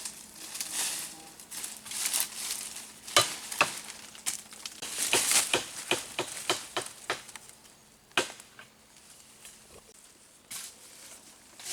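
Rustling and crinkling with a run of sharp crackles and snaps, thickest about three to seven seconds in, over a faint steady hum.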